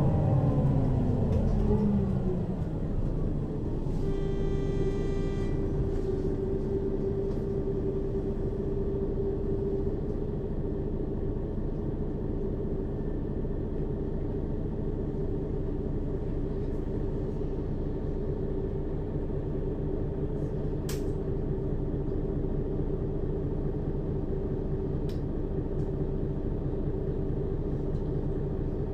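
Mercedes-Benz Citaro city bus engine with its ZF Ecomat 2 automatic gearbox, heard from inside the bus: the engine note falls as the bus slows over the first two seconds, then holds a steady pitch. A brief high tone sounds about four seconds in.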